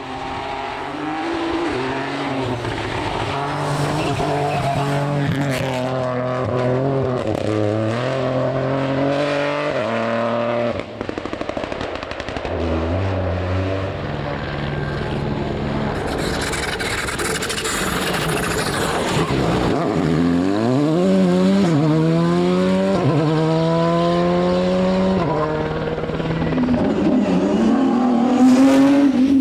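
Rally car engines at full throttle on a stage, the revs climbing steeply through each gear and dropping back at the gear changes, several times over. A burst of hiss partway through.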